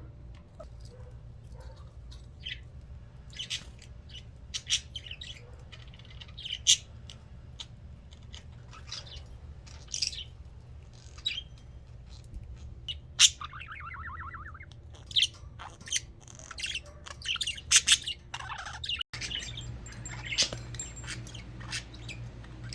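Budgerigars chirping and chattering, with short sharp calls scattered throughout and a fast warbled trill about two-thirds of the way through, over a steady low hum.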